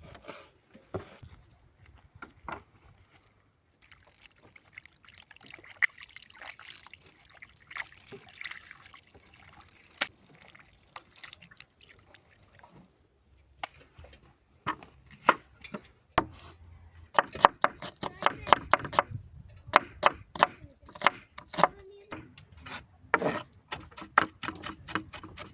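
Food-preparation handling sounds: a liquid is poured or worked with a soft trickling hiss and scattered clicks for several seconds, then a fast run of sharp clicks and knocks.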